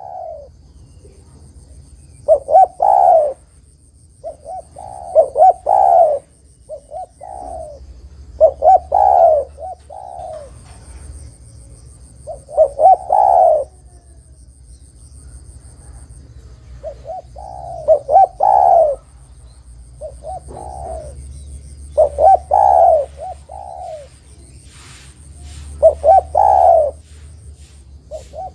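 Spotted dove singing: loud cooing phrases of a few notes each, repeated every three to four seconds.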